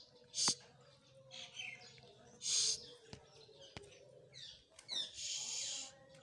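Pet parrot calling: several short chirps and three noisy squawk-like bursts, the last lasting about a second near the end, with a couple of sharp clicks in between.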